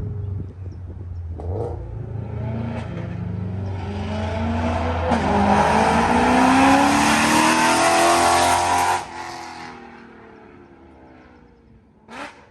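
BMW E92 M3's V8 through a catless X-pipe and Borla ATAK cat-back exhaust, accelerating hard. Its pitch climbs steadily for several seconds and gets loud, then cuts off suddenly about nine seconds in and fades away. A short sharp click comes near the end.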